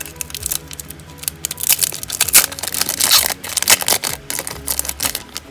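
Crinkling and crackling of foil Pokémon booster-pack wrappers being handled and opened, in quick irregular bursts over background music.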